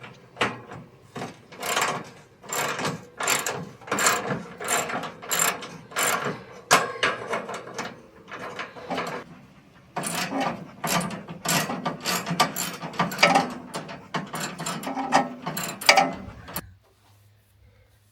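Hand tools working on car hardware: a ratchet wrench clicking in runs, mixed with sharp metallic knocks and clanks. The clicking stops shortly before the end, leaving a faint low hum.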